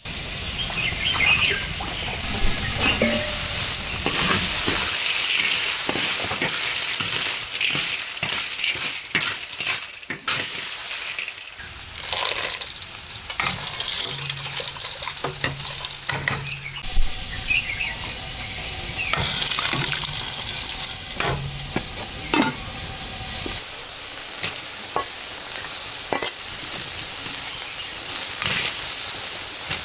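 Food sizzling in a hot wok as it is stir-fried, with a metal spatula scraping and knocking against the pan again and again.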